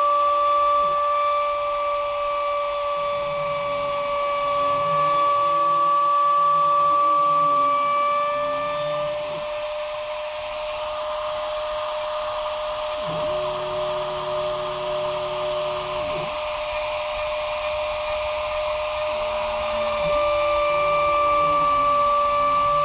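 Stepper motors of a home-built Arduino CNC machine with A4988 drivers, whining as the axes move: the pitch glides up and down as they speed up and slow down, and holds steady for a few seconds of travel around the middle. A steady high whine runs underneath.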